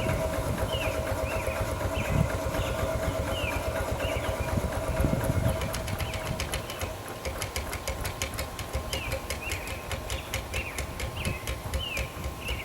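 5/8 scale Wood Brothers steam traction engine running with a low rumble that fades away after about six seconds. A high chirp repeats about twice a second throughout, and fast light ticking comes in during the second half.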